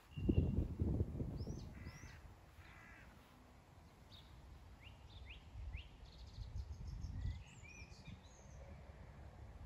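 Wild birds calling and singing: two harsh calls about two and three seconds in, then a run of short rising chirps and a brief warbling song. A low rumble of wind on the microphone is loudest in the first second or so.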